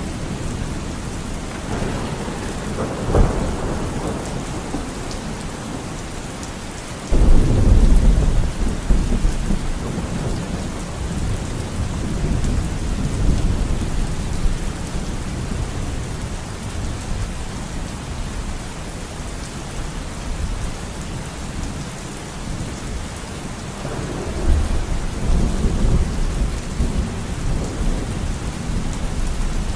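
Steady heavy rain falling, with rolls of thunder: a sharp crack about three seconds in, a loud rumble that breaks in suddenly about seven seconds in and dies away slowly, and another rumble near the end.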